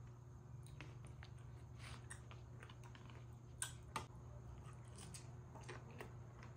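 Faint chewing of sushi, with light clicks of chopsticks against a plastic takeout tray and two sharper clicks a little past halfway, over a low steady hum.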